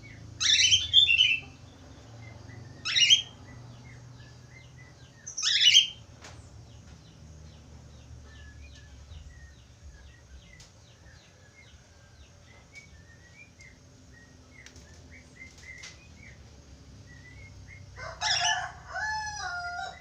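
Budgerigars calling: three loud, sharp calls sweeping upward in the first six seconds, soft chirping chatter in between, and a louder call with held whistled notes near the end.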